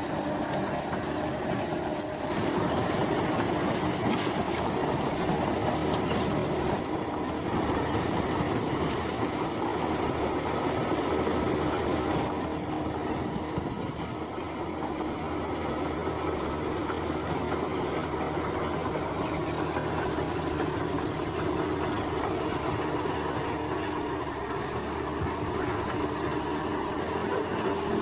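Crawler bulldozer working: the engine runs steadily while the steel tracks squeal and clank. Insects chirp in a faint high pulsing band.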